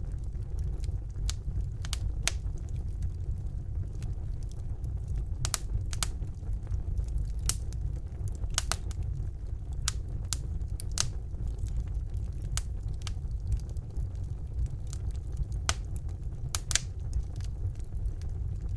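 Wood fire burning in a fireplace: a steady low rumble of flames with irregular sharp crackles and pops, a few each second.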